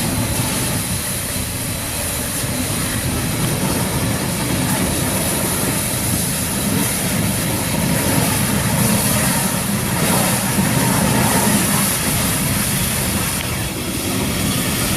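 Truck fire carrying gas bottles, burning with a loud, steady roar: a continuous rushing noise with a deep rumble under a high hiss.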